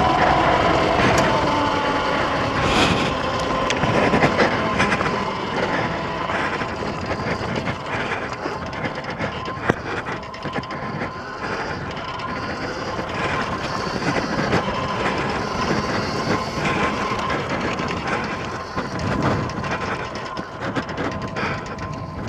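X Pro dirt bike's small single-cylinder engine running under load in second gear while riding a trail, its pitch dipping at first and then holding fairly steady. Wind noise and frequent knocks and rattles from the bike over bumpy ground run along with it.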